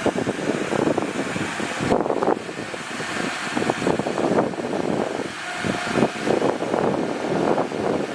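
Bulldozer running as it pushes soil: a steady machine noise broken by many short, uneven crackles.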